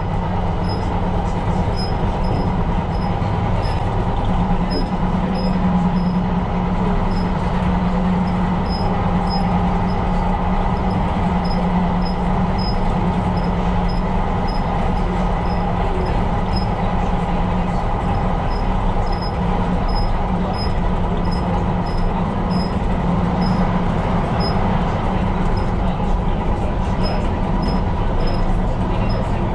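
Tyne & Wear Metro train running along the line, heard from inside the cab: a steady rumble of wheels on rail and traction noise. A faint high tick repeats regularly throughout.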